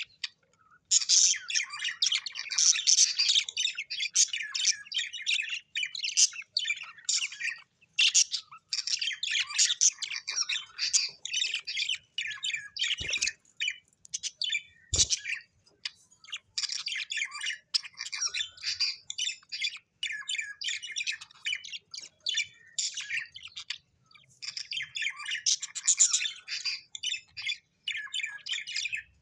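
Small parrots chirping and chattering in a dense stream of quick, high twittering calls broken by a few short pauses, with two brief knocks near the middle.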